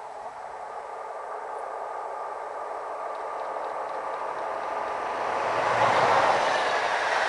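Electric train approaching on the line: a steady rushing rail noise that grows louder throughout.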